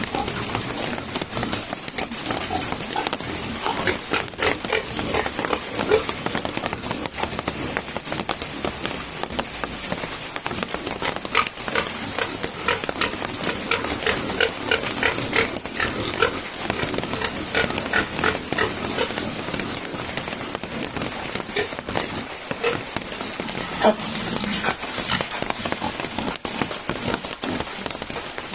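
Domestic pigs grunting and squealing in their pen, many short calls coming thick and fast through the middle of the stretch, over the steady hiss of heavy rain.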